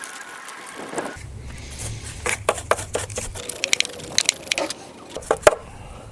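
Aluminium oxide abrasive paper scrubbing a car battery's terminal post and earth-lead connector clean: a run of short, irregular scratchy strokes.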